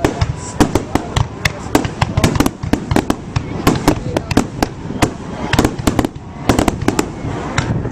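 Aerial fireworks going off in rapid, irregular succession: many sharp bangs and crackling pops each second.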